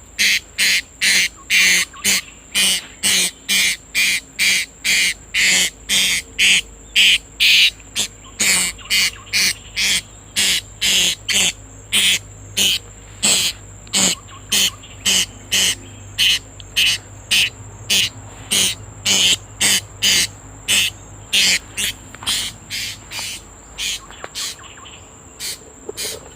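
Loud, rhythmic chirps at about two a second, a little fainter near the end, over a steady high-pitched insect drone.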